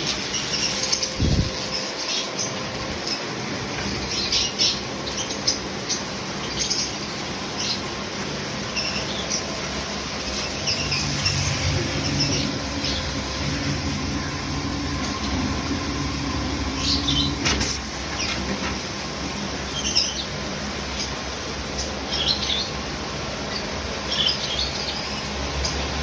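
Pressure washer spraying water, with a low motor hum that grows stronger about ten seconds in. Birds chirp repeatedly and flap their wings.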